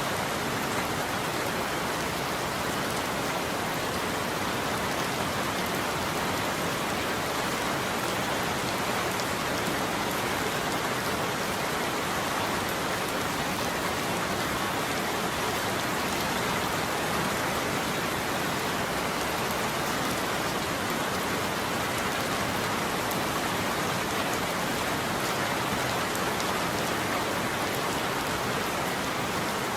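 Steady heavy rain falling on a surface, an even hiss of many drops with no thunder.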